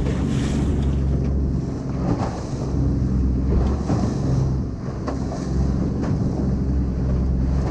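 A boat's engine running steadily under way, with wind buffeting the microphone and water rushing past the hull.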